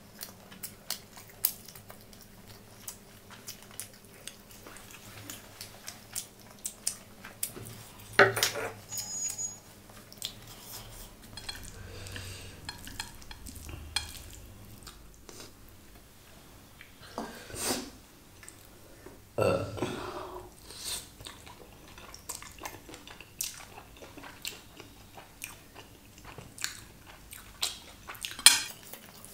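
Close-miked chewing and biting of food, with many short wet mouth clicks and a few louder mouth noises, along with chopsticks stirring and tapping in a steel bowl of noodles.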